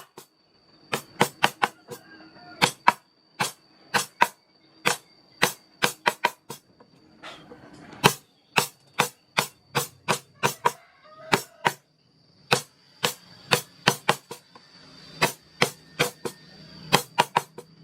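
Carving chisel being struck into wood, sharp irregular taps at roughly two to three a second with brief pauses between runs.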